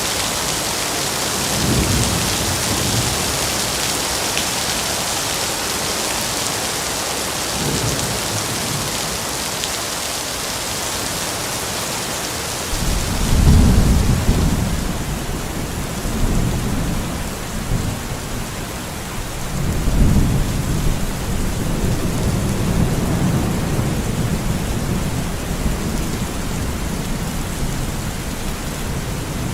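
Steady rain falling in a forest, with rolls of low thunder: faint rumbles early on, a loud roll about halfway through and another soon after that rumbles on for several seconds.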